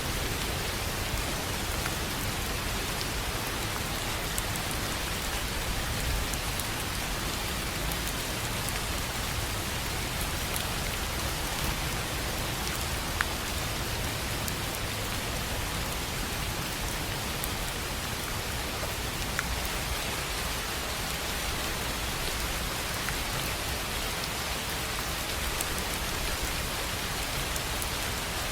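Steady rain falling on a tin roof, an even hiss with scattered individual drops ticking on the metal and one sharper drop hit about halfway through.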